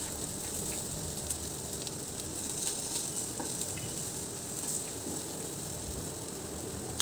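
Onion pieces and ground spices frying in mustard oil in a non-stick kadai, with a steady sizzle. A slotted spatula stirs them, scraping lightly against the pan.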